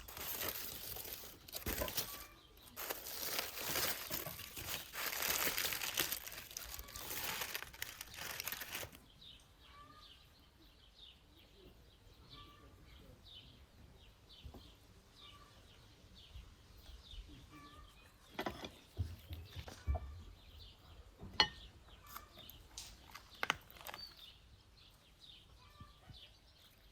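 Loud rustling and crinkling for about nine seconds, then a sudden cut to a quiet outdoor background with faint, scattered bird chirps and a few sharp knocks.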